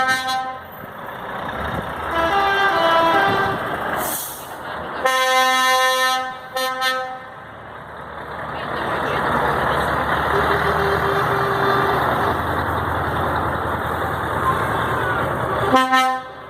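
Truck horns sounding: several horn blasts of different pitches in the first seven seconds, some long and some short. Then the rumble of a heavy truck's engine and road noise builds and holds, and another short horn blast comes near the end.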